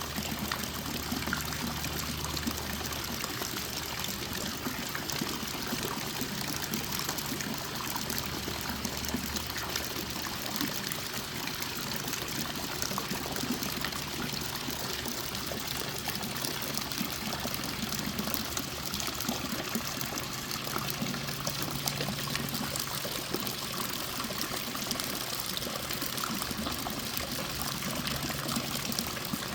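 Small water fountain running, water trickling and splashing steadily, with a faint low hum underneath that comes and goes.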